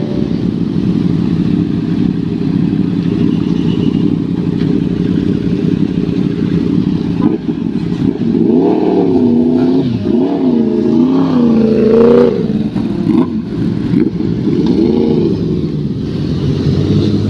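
Several superbike engines idling together while warming up, with one being revved up and down in repeated throttle blips over the second half.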